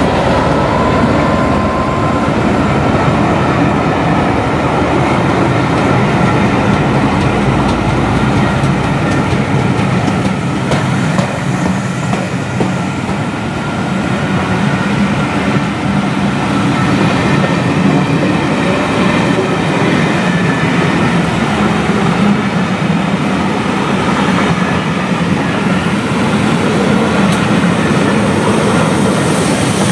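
A rake of maroon passenger coaches from a charter train passes close by: a loud, steady rumble and rattle of wheels on the rails. Right at the end a hiss begins to rise as the steam locomotive at the rear draws near.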